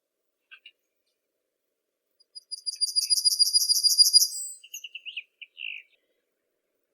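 A songbird singing: a few faint chirps, then a fast, high trill lasting about two seconds, followed by a short run of lower chirps.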